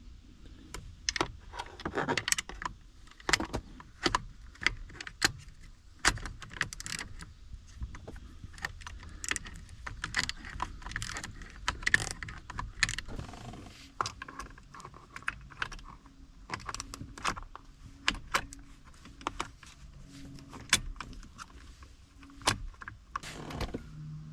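Irregular small metallic clicks and rattles of hand tools and parts being worked on a car's steering column, as the ignition lock assembly is unbolted and worked loose.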